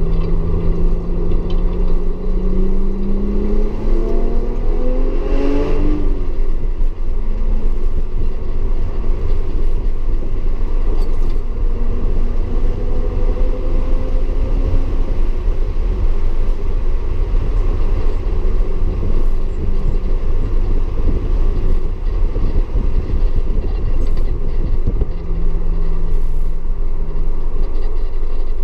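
Audi S4 engine under load on track: it revs up for about six seconds, drops off suddenly, then runs at steadier revs with another rise near the end. A constant low rumble runs beneath it.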